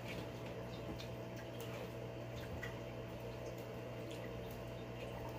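Faint wet clicks and smacks of people chewing soft tomtom eaten by hand, scattered irregularly, over a low steady hum.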